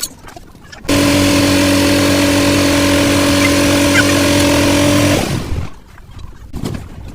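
A handheld power tool runs at a steady speed for about four seconds with a constant whine and hiss, then is switched off and spins down.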